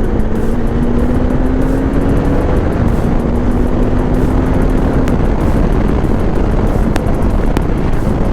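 Bajaj Dominar 400 single-cylinder motorcycle engine under way, buried in heavy wind and road rush on the microphone. The engine note climbs slowly for about five seconds and then drops back into the noise, and two sharp ticks come about seven seconds in.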